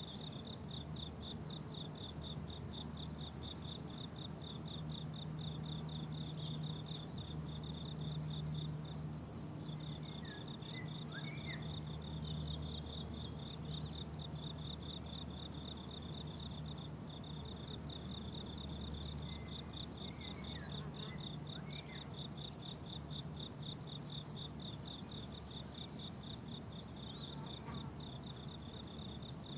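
Crickets chirping in a steady, even rhythm of about three high chirps a second, several overlapping.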